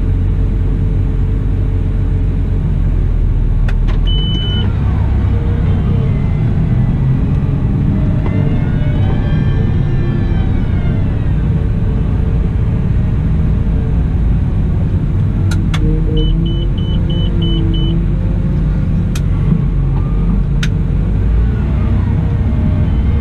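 Cat 972M XE wheel loader's diesel engine running under load, its pitch rising and falling once around the middle. There is a single short high beep about four seconds in, and later a string of six quick beeps, with a few sharp clicks.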